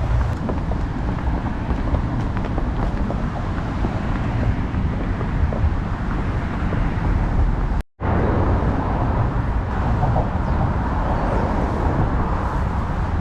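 Steady road traffic noise with a heavy low rumble, likely wind on the microphone as well, broken by a brief cut about eight seconds in.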